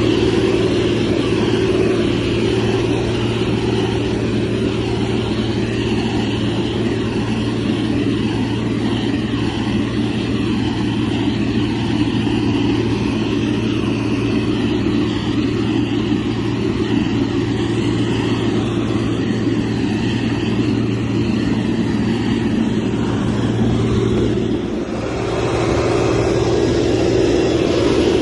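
Heavy road-construction machine's diesel engine running steadily, with a brief drop in level about 25 seconds in.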